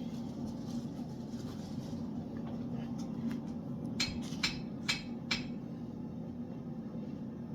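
A steady low hum with four light, sharp clinks in quick succession about four to five and a half seconds in, each with a brief ringing tail.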